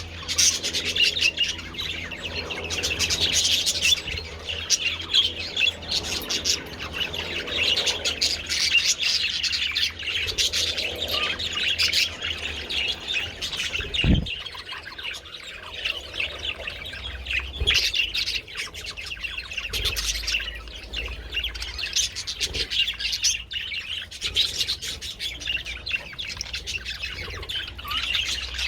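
A flock of budgerigars chattering and chirping continuously. A single short thump about halfway through.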